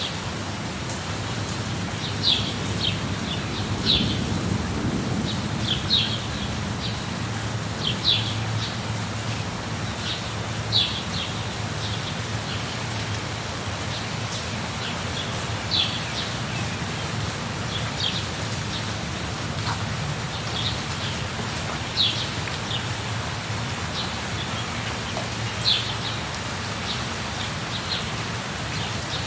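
Steady rain with a low rumble of thunder that swells about four seconds in, while a bird gives short high chirps every second or two.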